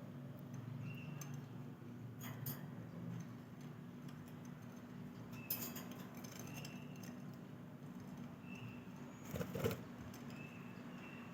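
Budgerigars giving soft, short high chirps every second or two while feeding, with a few sharp clicks and rattles, the loudest about nine seconds in, over a steady low hum.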